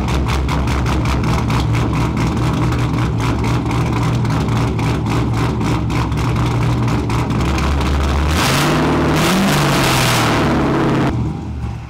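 LS V8 swapped into a Mazda Miata, running loud through an unmuffled exhaust. It idles steadily with even exhaust pulses, then the throttle is blipped about eight seconds in: the pitch rises and falls back. The sound cuts off just before the end.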